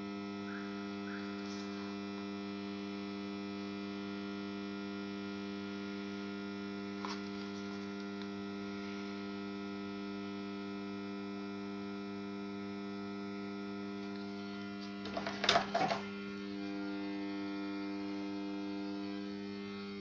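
Steady electrical hum from a ZhKU-15 high-pressure sodium street-light fixture, coming from its 250 W two-winding magnetic ballast choke. About three-quarters through there is a brief cluster of loud clicks and knocks.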